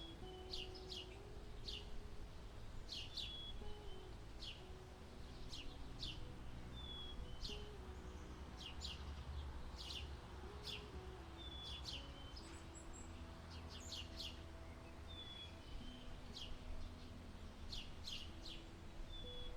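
Birds chirping repeatedly: quick high chirps, some followed by a short whistle, recurring every second or two. Underneath are a low rumble and a slow, soft melody of held low notes.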